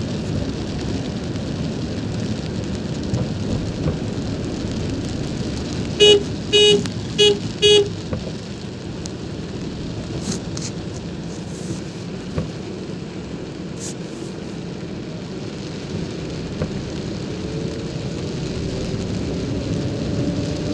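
Steady rain and road noise while driving, with a vehicle horn sounding four short honks about six seconds in.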